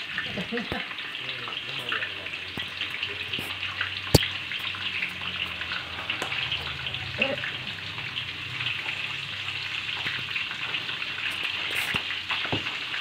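Eels frying in hot oil in a wok: a steady sizzling hiss, with one sharp click about four seconds in.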